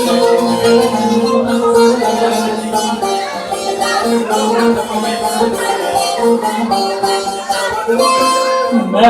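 Instrumental interlude of Turkish folk music between sung verses, led by a rapidly plucked long-necked lute (bağlama/saz) playing a melodic run.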